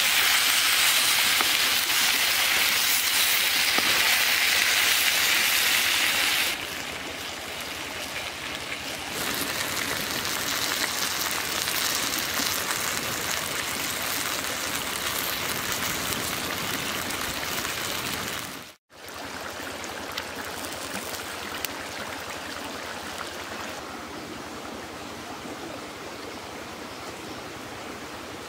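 Chicken curry frying in a wok, a loud sizzle for the first six seconds, then a softer, steady hiss mixed with the steady rush of a stream. The sound drops out for a moment about nineteen seconds in.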